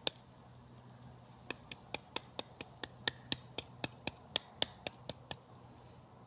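Blade cutting notches into a stick of wood, heard as a run of short sharp knocks. They come about three a second from about a second and a half in.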